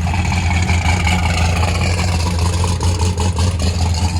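Rat rod truck's engine idling, loud and steady with a deep, even hum.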